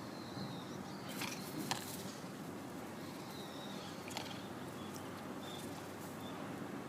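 Steady outdoor background hiss with faint, high bird chirps. A few short, sharp rustling clicks come about a second in, just before two seconds and around four seconds in.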